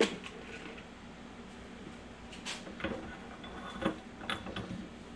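Scattered light clicks and knocks of a metal transmission gear being handled and lubed by hand on the bench, with a sharper click right at the start.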